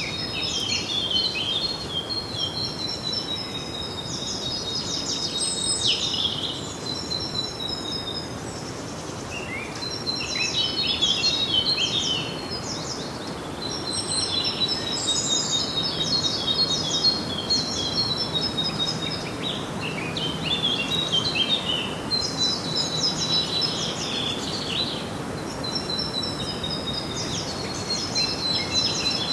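Songbirds singing in repeated bouts of rapid high chirps and trills over a steady background hiss.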